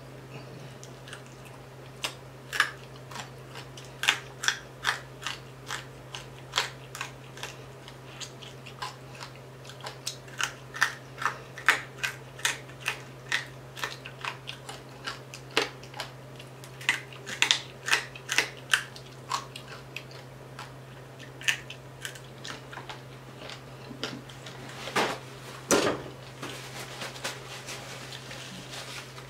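Close-up chewing and biting of crispy whole fried tilapia: a quick, uneven run of crunches and wet mouth clicks, over a steady low hum. Near the end a paper napkin rustles as hands are wiped.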